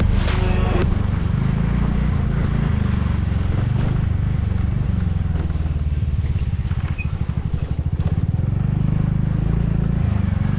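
TVS Ntorq 125 scooter's single-cylinder engine running through a modified aftermarket exhaust: a deep, steady drone, with a stretch of fast, even throbbing in the middle.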